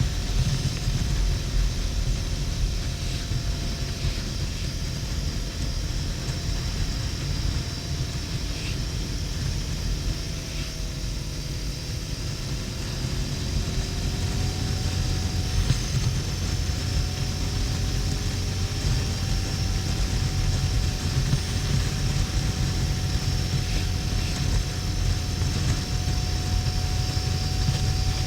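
Harley-Davidson XL1200N Sportster's air-cooled V-twin running steadily at motorway cruising speed, a heavy rumble under wind rushing over the helmet camera, its pitch drifting slowly a little lower then higher again. The footage is sped up to double speed, which raises the pitch.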